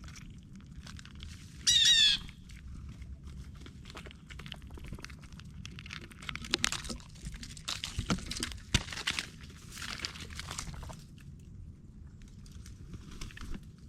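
A bird gives one short, loud call of rapidly repeated notes about two seconds in. Later come scattered rustling and a few sharp taps, the sound of animals moving and feeding at a feeder.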